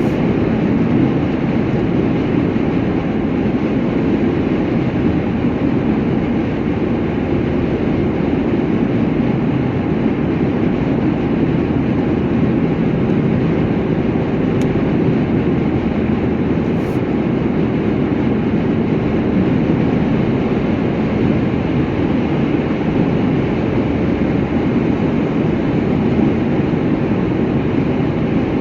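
Steady, unbroken running noise of a moving vehicle, a dense low rumble and hiss that holds an even level throughout.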